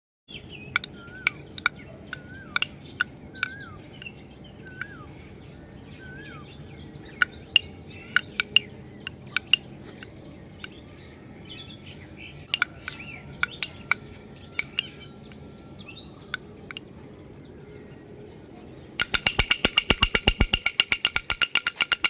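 Birds chirping with short, sharp calls for most of the stretch. Near the end a baby rattle is shaken fast and evenly, about ten strokes a second, each with a bright ringing jingle, louder than the birds.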